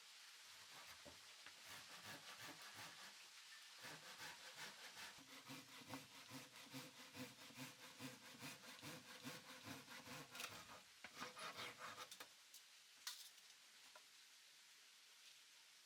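Hand saw cutting through wood in steady back-and-forth strokes, about two a second, stopping about twelve seconds in; a single sharp click follows.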